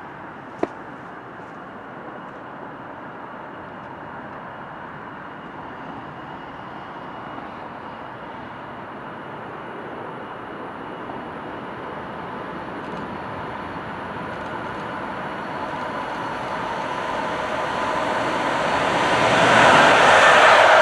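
A train approaching along the line, its noise growing steadily louder and becoming loud in the last two seconds. There is a single sharp click about half a second in.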